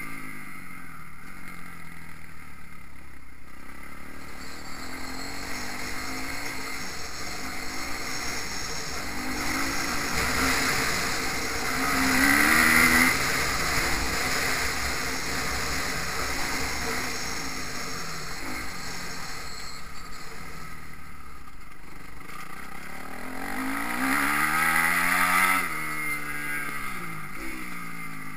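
Motocross bike engines revving up and backing off on a dirt track, with two louder runs of rising revs, one about twelve seconds in and one about twenty-four seconds in, each cut off sharply as the throttle closes.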